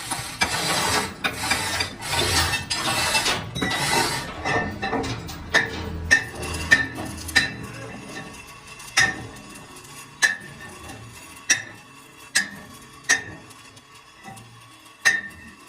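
Metal striking metal in a workshop: a stretch of busy scraping and clattering, then a run of sharp ringing clinks about one a second.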